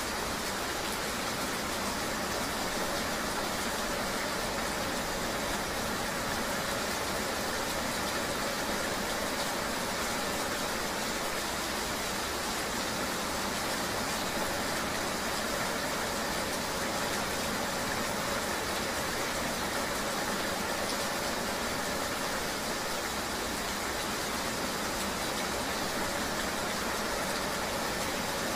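Steady ambience of riding in the rain: an even hiss of rain over the low hum of a vehicle's engine, unchanging throughout.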